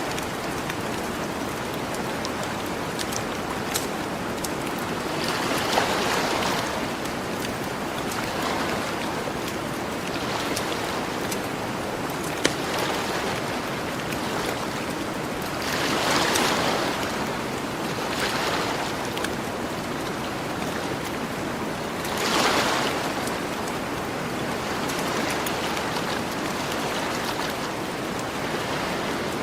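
Gentle ocean waves washing onto the shore, swelling and falling every few seconds, with a campfire crackling and giving an occasional sharp pop.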